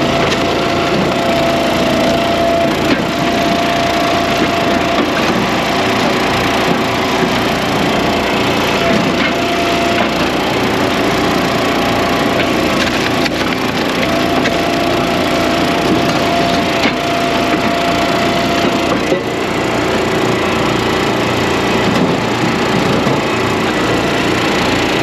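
Continuous loud din of firewood processing: engine-driven wood splitters and chainsaws running, with wood splitting and cracking. Steady engine tones come and go throughout, with no pauses.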